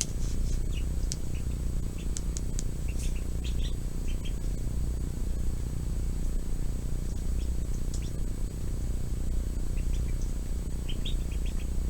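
Scattered short bird chirps, bunched into quick runs a few seconds in and again near the end, over a steady low hum with a few faint clicks.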